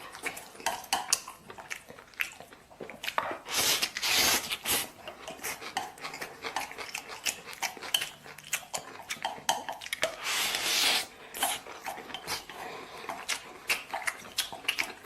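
Eating utensils clicking and scraping against dishes during a meal, with many short clinks and two longer noisy bursts about four and eleven seconds in.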